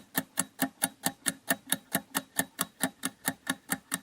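Countdown timer sound effect: a steady, clock-like ticking at about six ticks a second, counting down the seven-second answer time.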